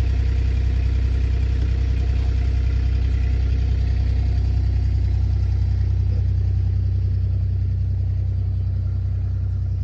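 A vehicle engine running with a steady low drone, as heard inside the cab.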